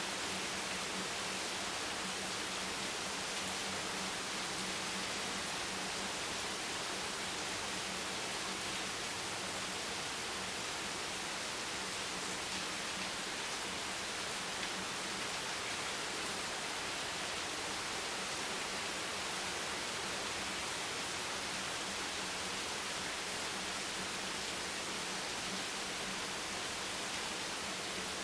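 Steady, even hiss of rain with no separate drops standing out, under a faint low steady hum.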